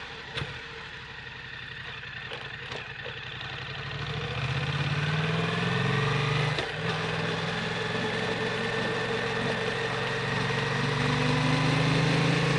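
Yamaha MT-07 parallel-twin engine through an Akrapovic Racing Titan full exhaust, pulling under acceleration: its note climbs in pitch and grows louder, breaks briefly about six and a half seconds in at an upshift, then climbs again.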